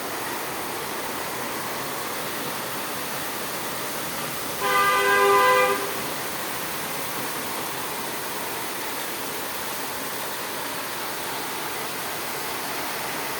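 Steady hiss of heavy rain falling. About five seconds in, a vehicle horn sounds once for just over a second and stands out above the rain.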